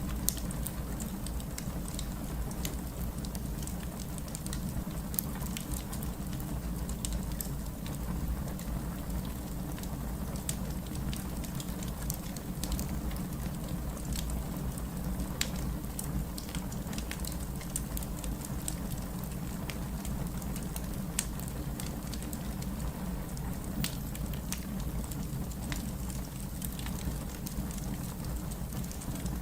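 Wood fire burning in a fireplace: a steady low rush of flame with many irregular sharp crackles and pops from the burning wood.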